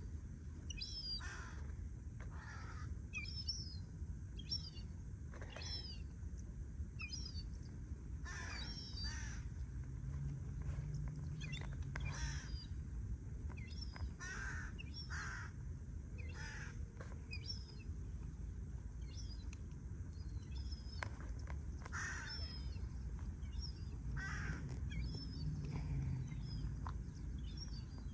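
Crows cawing in short harsh calls, mixed with many quick high-pitched chirps from other birds about once a second, over a steady low rumble of wind or distant background noise.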